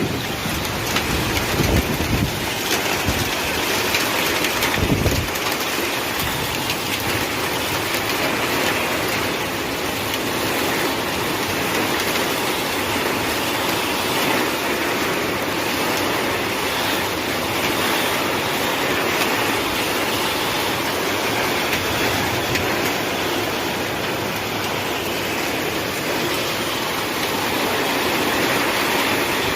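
Heavy rain and hail pelting down in a steady, dense rush. Wind buffets the microphone in low gusts during the first few seconds.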